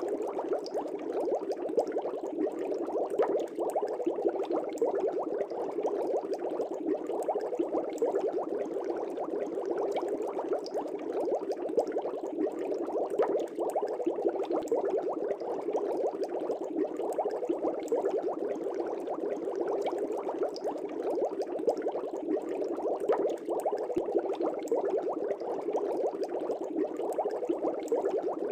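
Air bubbles streaming up through an aquarium's water, a steady dense bubbling made of many small pops.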